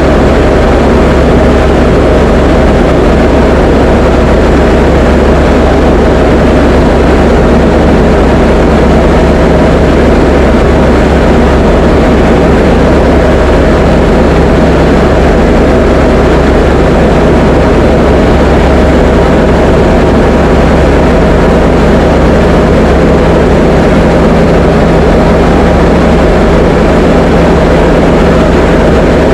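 Diamond DA20's four-cylinder piston engine and propeller running at a steady cruise power, heard as a loud, unchanging drone inside the cockpit.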